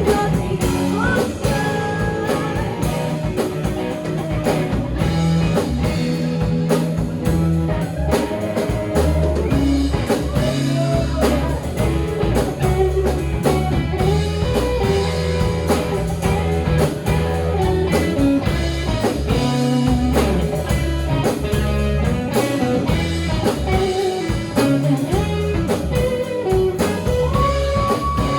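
Live rock band playing an instrumental passage: electric guitar lines over bass and a drum kit, with no singing.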